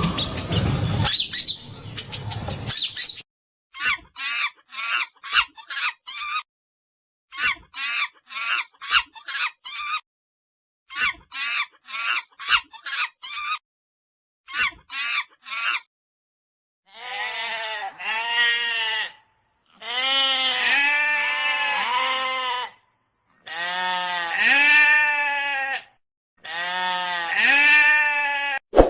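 A run of animal calls. First comes a few seconds of bird chirping, then four groups of short, quick high-pitched calls, four or five calls to a group. Then sheep bleat four times, each bleat long with a wavering pitch.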